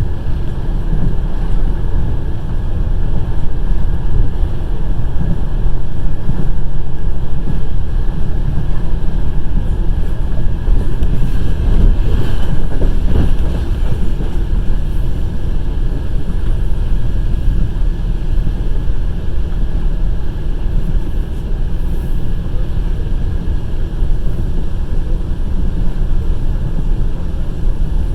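Steady low rumble and rushing of a passenger train running at speed, heard from inside the carriage by the window, with wind on the microphone.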